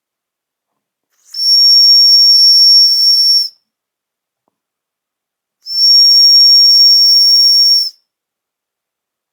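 Whistle on a Wilesco live-steam model engine's boiler, blown twice. Each blast is a steady, very high-pitched whistle over a hiss of escaping steam, lasting about two seconds, the second starting about two seconds after the first ends.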